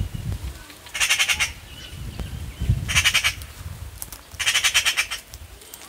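A bird calling in three short bursts of harsh, fast rattling chatter, each lasting about half a second, over a low rumble.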